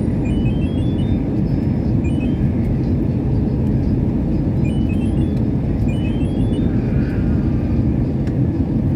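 Airliner cabin noise heard from a passenger seat: a steady, loud rumble of engines and airflow. Faint short high chirps rise in little stepped runs about four times through it.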